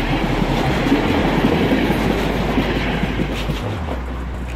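Passenger train passing close by, its wheels clattering over the rails, the noise easing near the end as the last coach goes by.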